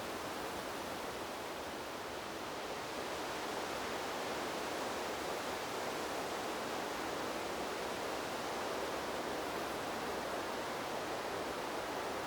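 Wind blowing through a bamboo grove: a steady rustling hiss of moving leaves that swells slightly about three seconds in.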